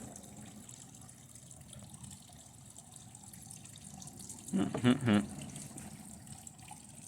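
Circuit board burning and sizzling under high current from a lead-acid battery: a faint, steady crackling hiss. A short vocal sound breaks in about halfway through.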